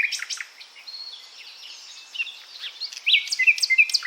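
Nightingale song: a varied string of quick chirps, whistles and trills, with a louder run of rapid notes near the end.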